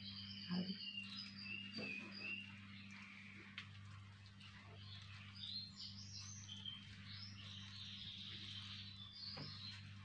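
Small birds chirping and twittering in quick, wavering high notes over a steady low electrical hum, with a few faint soft clicks.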